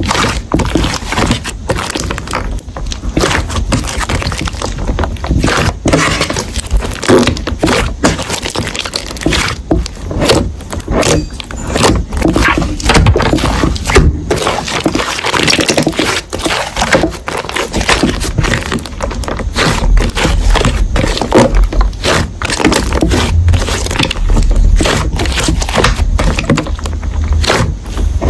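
Slime being squeezed and kneaded by hand, giving dense, irregular crackling and clicking.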